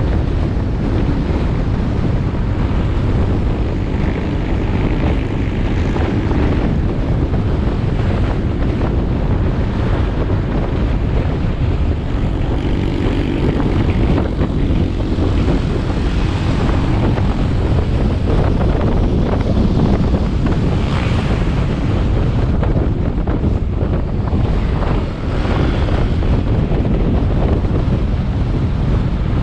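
Motorbike engine running and road noise while riding, heavily covered by wind buffeting the action camera's microphone. The sound stays steady, with a brief dip about 25 seconds in.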